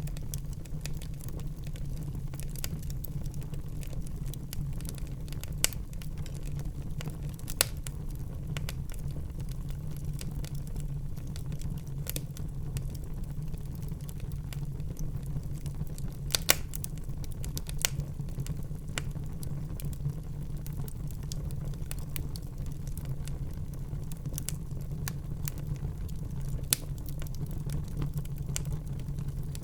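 Wood fire burning in a fireplace: a steady low rumble of flames with scattered sharp crackles and pops, the loudest about sixteen seconds in.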